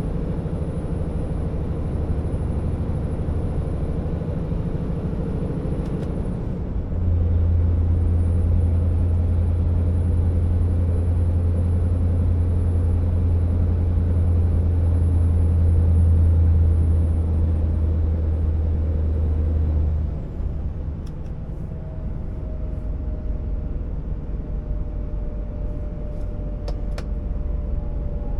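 Scania R650 timber truck's V8 diesel engine running on the road. About seven seconds in it pulls harder with a loud deep drone, which eases off about twenty seconds in. A few light clicks come near the end.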